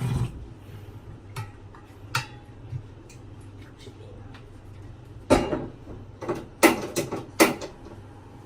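Kitchenware being handled while setting up to boil water: a few light clicks, then a cluster of louder clattering knocks of pots and dishes about five to seven seconds in.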